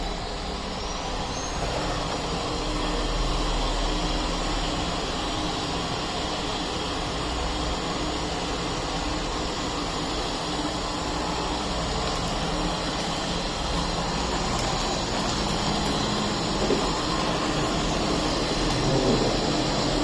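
Puppyoo R6 robot vacuum running in a cleaning mode, a steady, even whoosh of its suction motor.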